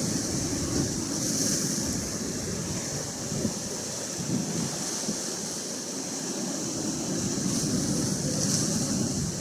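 Atlantic Ocean surf washing in steady, rolling swells, with some wind noise on the microphone.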